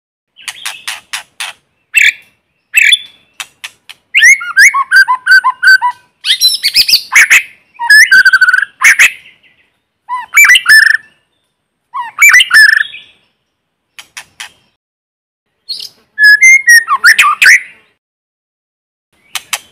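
White-rumped shama singing a series of varied song phrases, each made of sharp rapid clicks and rich whistled notes, with short silent pauses between phrases.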